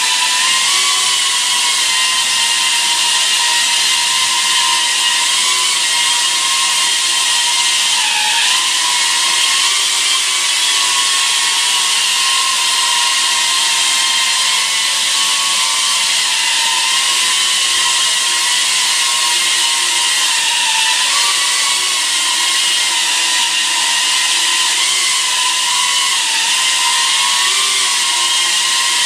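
Beta95X pusher cinewhoop FPV drone hovering, its brushless motors and propellers making a loud, steady high whine over a rushing hiss. The pitch wavers slightly as the throttle is corrected. The drone is very noisy, typical of 2.5 to 3 inch cinewhoop motors and props.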